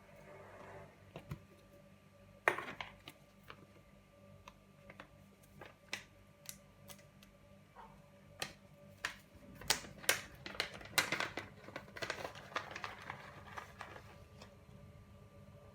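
Irregular light clicks and taps, scattered at first and coming thick and fast for a few seconds past the middle, over a faint steady hum.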